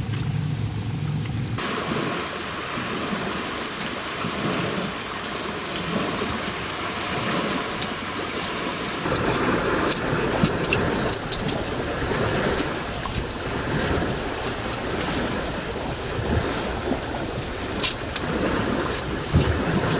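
Carrots frying in a pan: a steady sizzle with scattered sharp pops and crackles, which come more often in the second half.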